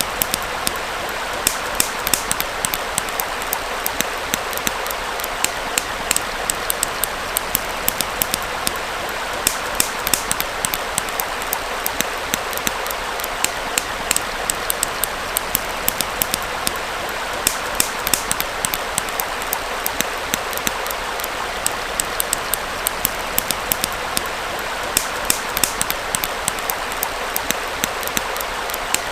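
Campfire crackling with frequent sharp pops and snaps over the steady rush of a small flowing stream.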